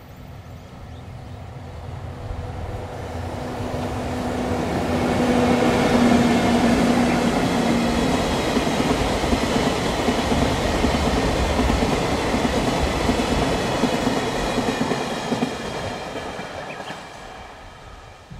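Freight train passing: two EF64 electric locomotives coupled together hauling a long rake of tank wagons, with a steady hum as the locomotives approach, then the wagons' wheels running over the rails. The sound builds to its loudest about six seconds in, holds, and fades away near the end.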